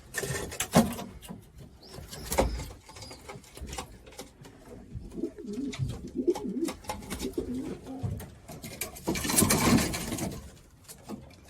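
Racing pigeons cooing, with scattered clicks and knocks and a louder, noisy flurry about nine seconds in.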